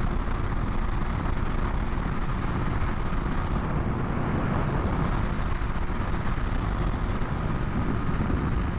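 Steady wind rush and road noise on a helmet-mounted microphone while riding a 2020 BMW S1000RR at an even speed, with the bike's inline-four engine running steadily underneath.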